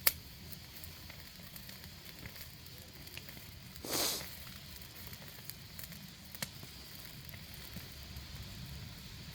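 Firewood fire crackling under a cast-iron cauldron, with a sharp pop right at the start, a brief hiss about four seconds in and another pop a couple of seconds later. Wind rumbles on the microphone underneath.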